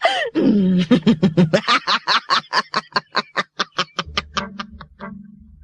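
A cartoon girl's long mocking laugh, a fast run of 'ha-ha-ha' that fades out gradually over about four seconds. A low held music note comes in near the end.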